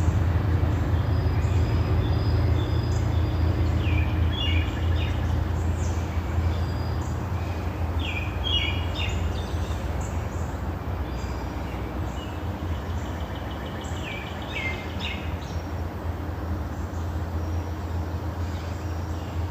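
Birds calling in short phrases of quick stacked notes, about four times, over a steady outdoor background. A low rumble underneath fades off after about seven seconds.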